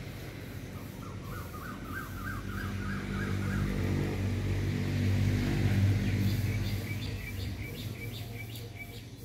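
Birds calling: a run of about ten quick chirps in the first few seconds, then a higher series of chirps later on, over a low droning hum that swells to its loudest about six seconds in and then fades.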